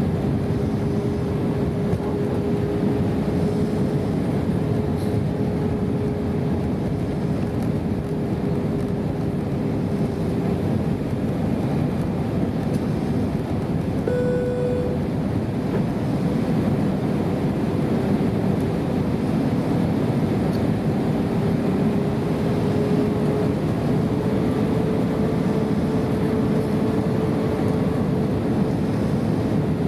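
Airbus A320 cabin noise in flight: a steady rush of air with a droning engine tone that drifts slightly up and down in pitch. A short, higher tone sounds once about halfway through.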